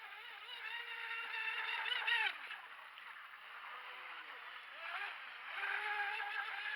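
Radio-controlled model boat motor whining under throttle. It holds a steady pitch, then drops in pitch and fades about two seconds in as the throttle is let off. It rises again about five seconds in and holds until near the end.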